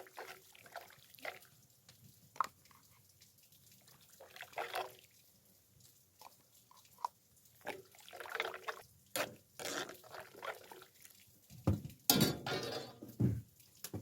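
Intermittent clinks, knocks and scrapes of a cooking utensil on a cast-iron cauldron lid, with wet liquid sounds from the tteokbokki sauce, busiest near the end.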